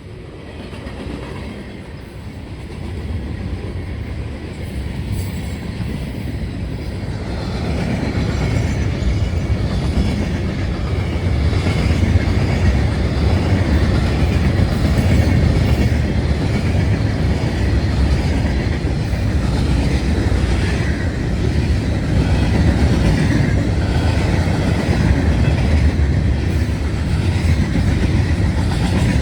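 CSX train approaching and running past on the main line, its noise growing steadily louder over the first dozen seconds, then holding loud and steady as the train rolls by.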